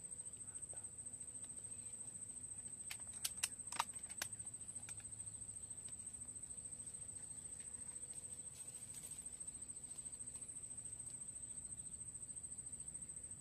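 Insects trilling steadily at a high pitch with a fast, even pulse. A few sharp clicks come about three to four seconds in.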